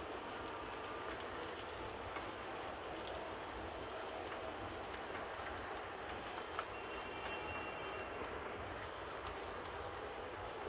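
Shredded cabbage and capsicum sizzling in hot oil in a wok, a steady frying hiss, with a few light taps of the silicone spatula as they are stirred.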